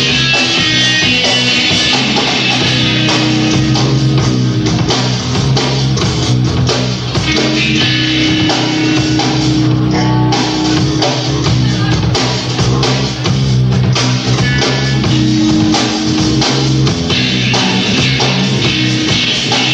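A rock band playing live: electric guitars and a drum kit.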